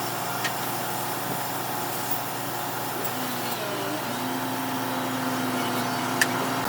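Woodworking machinery running steadily with a motor hum, its pitch wavering slightly, and a couple of sharp clicks, one about half a second in and one near the end.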